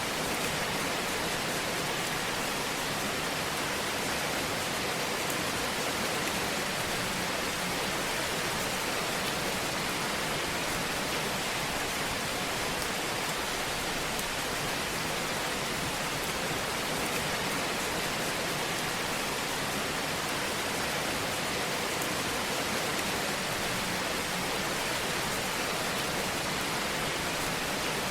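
Fire burning in a fireplace: a steady, even hiss with faint scattered crackles.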